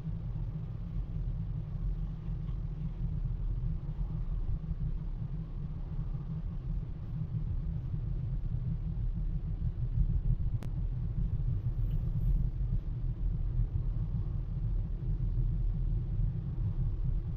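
A freight train passing, giving a steady low rumble, with a single short click about ten seconds in.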